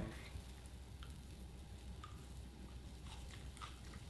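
Faint chewing of a piece of pan-fried banana-peel 'bacon', with a few soft, scattered mouth clicks.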